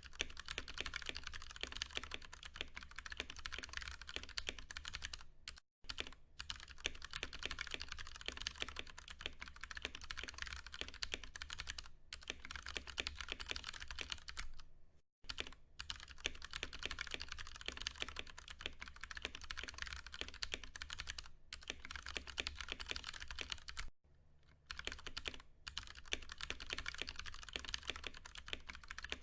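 Continuous fast typing on a Ducky One 2 Mini mechanical keyboard with Cherry MX Brown tactile switches, a dense run of keystroke clacks broken by short pauses about six, fifteen and twenty-four seconds in.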